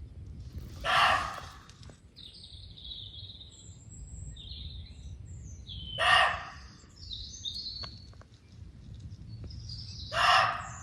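Small songbirds chirping and twittering in woodland, with three louder sounds of about a second each, roughly four to five seconds apart, over a steady low background rumble.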